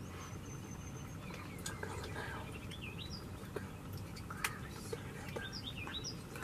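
Songbirds chirping with short, quickly rising and falling notes, and one held high whistle at the start. Two sharp clicks stand out about three and a half and four and a half seconds in.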